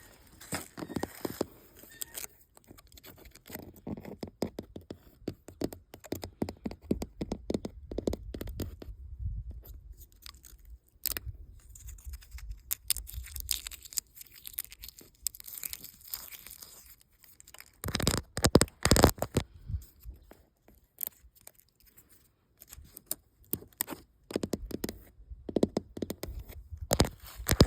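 Old paint being scratched and peeled off a weathered building's wall: irregular crackly tearing and scraping of brittle flakes. A louder run of crackling comes a little past the middle and again near the end.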